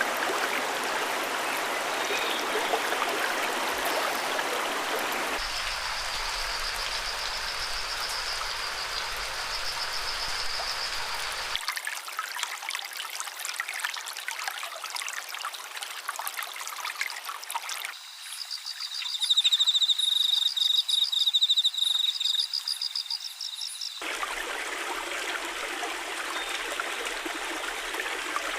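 Running water, like a stream, in a series of stretches that cut abruptly to one another every few seconds, with high rapid chirping in two of them.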